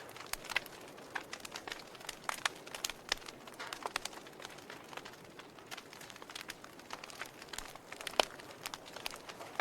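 Wood fire crackling in a fireplace, with irregular sharp pops over a soft hiss. One pop about eight seconds in is louder than the rest.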